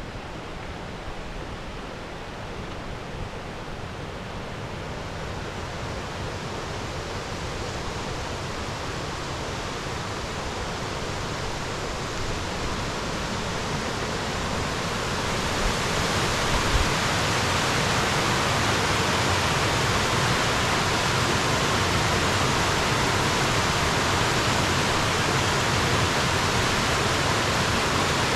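Steady rushing of a waterfall, growing louder over the first half as it draws nearer, then holding level.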